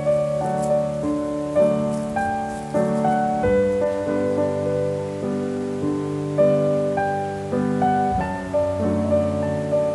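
Background piano music: single notes struck in a slow melody over sustained lower chords.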